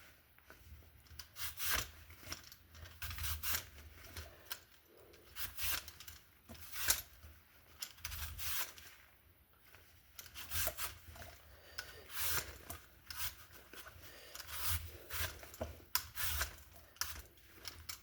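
OXO vegetable peeler scraping down an apple's skin in short, repeated downward strokes, peeling it.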